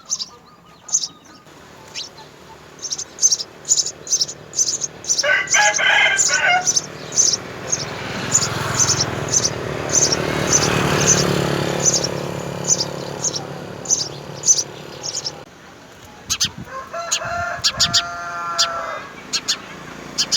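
House sparrows chirping at the nest, short high chirps repeated about twice a second. A rooster crows in the background about a quarter of the way in and again near the end, and a low rumble swells and fades in the middle.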